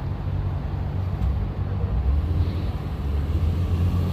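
Low, steady rumble of idling car engines.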